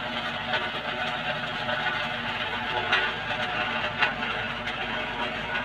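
An engine running steadily, with a couple of sharp clicks about three and four seconds in.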